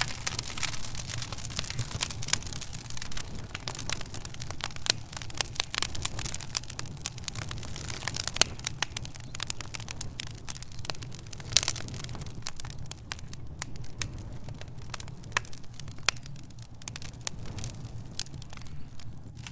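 Wood fire in a fireplace crackling, with frequent sharp pops at an irregular pace over a steady low rumble. A couple of pops are louder, one about eight seconds in and another near the middle.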